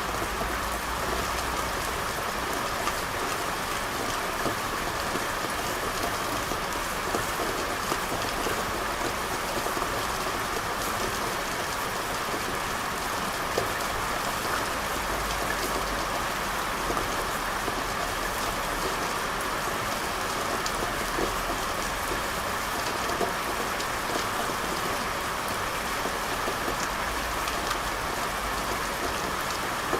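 Steady rain falling on hard surfaces, with many small drop ticks. A faint low rumble swells and fades a few times underneath.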